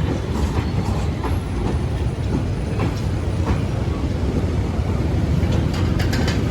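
A train rolling along the track: a steady heavy low rumble with scattered sharp clicks, which come thicker near the end.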